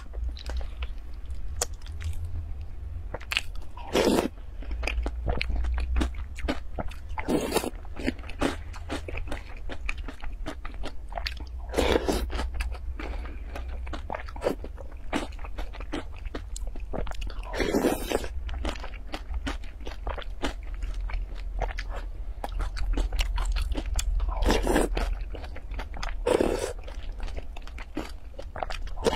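Close-miked mouth sounds of a person chewing a crunchy granola and nut topping in yogurt: continuous crisp crunching, with a louder bite or slurp every few seconds.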